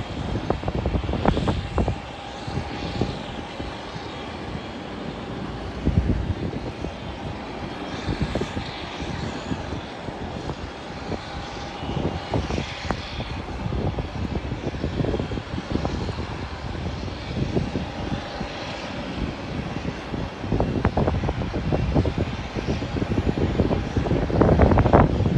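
Airliner engines running at a distance with a steady whine, under gusty wind buffeting the microphone. The wind gusts are strongest at the start and build again near the end.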